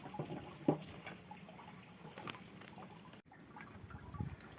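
Liquid dripping and trickling, with scattered small clicks and one sharper knock just under a second in.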